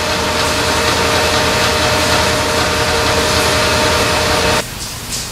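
A machine's motor running steadily with a hum over a rushing noise, cutting off abruptly about four and a half seconds in.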